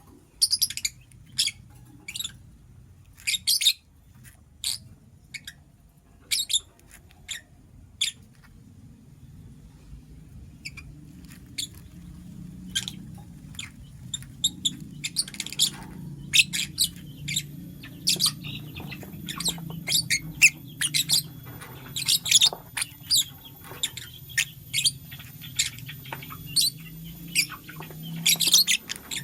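Lovebird chirping: short, sharp, high chirps, many of them at irregular intervals. A low steady hum runs underneath and grows louder from about a third of the way in.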